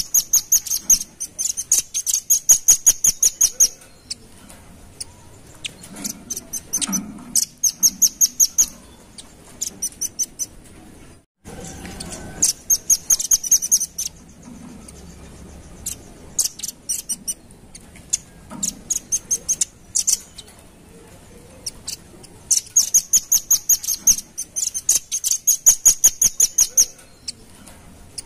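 Velvet-fronted nuthatch (red-billed nuthatch) calling: rapid runs of sharp, high notes, about nine a second, in repeated bursts of one to two seconds. There is a brief gap in the sound near the middle.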